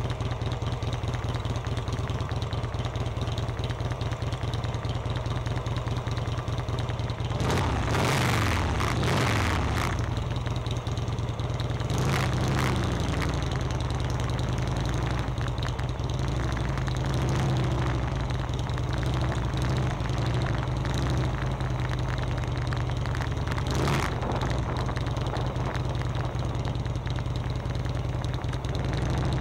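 Motorcycle engine running steadily at low revs. About eight seconds in there is a louder stretch where the pitch falls, a shorter one about twelve seconds in, and a brief burst of noise near the end.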